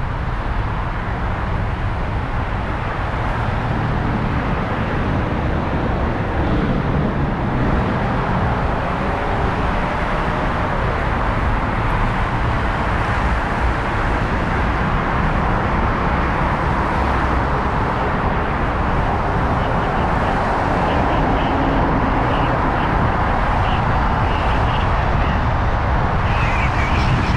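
Steady wind and road noise of a moving Chevrolet Malibu, heard from a camera mounted on its roof, with wind buffeting the microphone.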